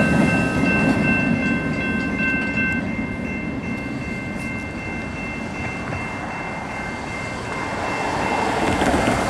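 Wheels of the last cars of a CN freight train rolling away, their rumble fading over the first few seconds. Steady high ringing tones sound above it and stop near the end, while a general noise rises again.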